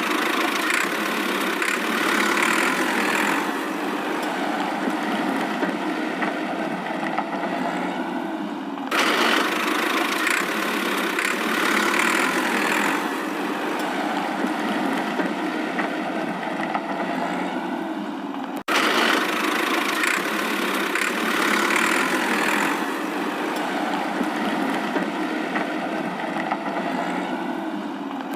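Steady engine-like running sound, with no deep low end, broken by abrupt cuts about 9 and 19 seconds in; the three stretches look alike, as if the same piece is repeated.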